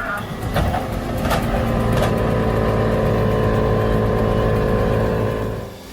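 Heavy machine's engine running steadily, with a few sharp knocks in the first two seconds; the sound cuts off abruptly near the end.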